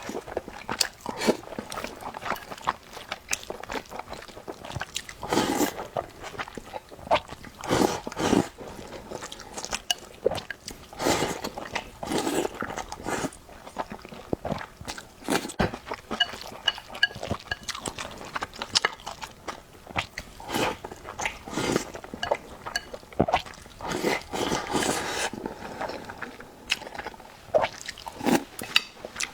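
Eating sounds: a person chewing and biting food, with irregular wet smacks and crunches.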